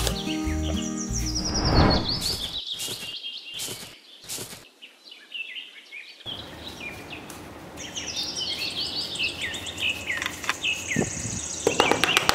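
Small birds chirping in short, quick, falling calls, with background music in the first couple of seconds and a few sharp clicks around the middle.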